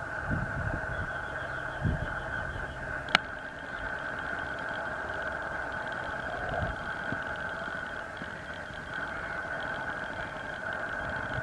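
Boeing 747-400's jet engines whining steadily at idle, a high tone over a lower one. Faint rapid chirping runs behind it, and there is one sharp click about three seconds in.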